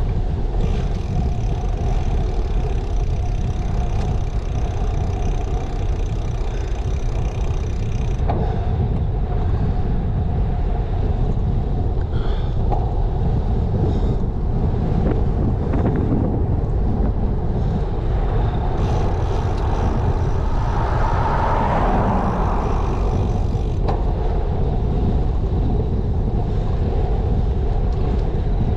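Wind rumbling steadily over an action camera's microphone while cycling. A brief swell of noise comes about three-quarters of the way through.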